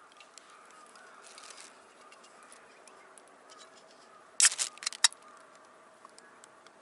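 Crows cawing, with scattered small ticks throughout. About four and a half seconds in comes a short loud cluster of sharp cracks, the loudest sound here.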